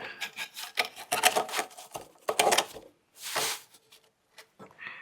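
Clicks, knocks and rustling of a sanding belt being worked onto a mini belt sander's rollers by hand, with a longer scraping hiss about three seconds in.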